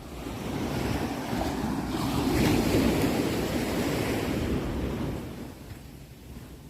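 Sea waves on a shore: one wave swells in, is loudest about two and a half seconds in, and washes out again, fading after about five seconds.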